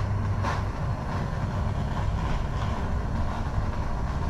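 Steady rushing rumble of the heat source running as black plastic zip ties are melted over it and dripped into cracks in a plastic sled.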